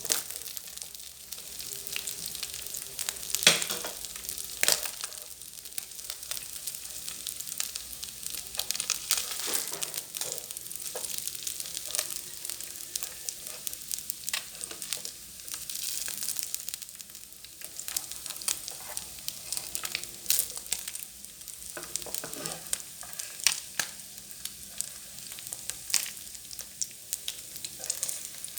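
Freshwater field fish frying in hot oil in a pan: a steady sizzle with frequent sharp crackles and pops.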